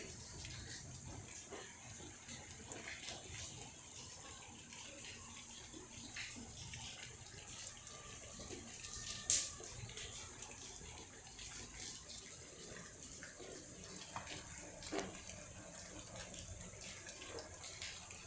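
Steady rain falling: an even hiss with scattered drops tapping, and one sharper tap about halfway through.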